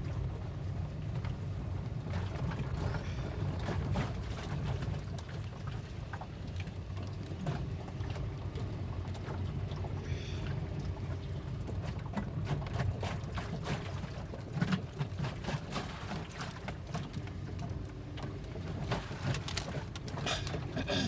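Car driving over a rough road, heard from inside the cabin: a steady low rumble of engine and tyres with frequent short knocks and rattles as it goes over bumps.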